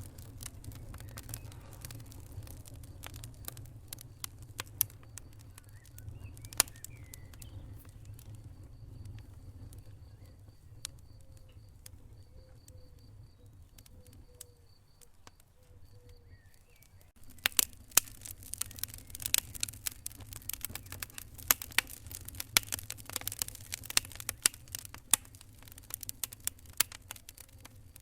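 Wood fire crackling and popping in a fireplace over a steady low rumble. The pops thin out midway, then come thick and sharp again about two-thirds of the way through.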